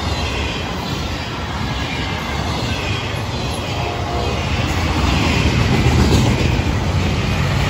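Florida East Coast Railway intermodal freight train's loaded well cars rolling past close by: a steady rumble of steel wheels on rail that grows a little louder about six seconds in.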